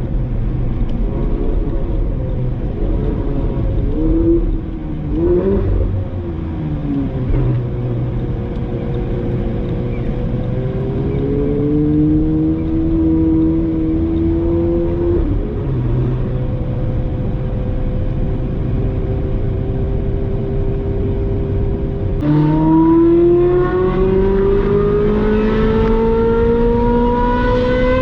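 Ferrari 458 Spider's 4.5-litre V8 through a Brilliant aftermarket exhaust, driving in town. The engine note dips and rises with gear changes over the first several seconds and holds fairly steady at low revs through the middle. About 22 seconds in it climbs steadily under acceleration.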